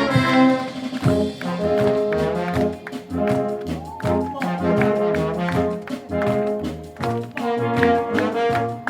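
Wind orchestra playing live, brass to the fore with trombones and trumpets carrying the tune over a steady beat.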